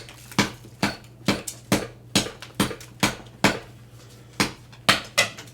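A hammer repeatedly striking a solid concrete block, sharp blows about two a second with a brief pause near the four-second mark, chipping at it to crack it open.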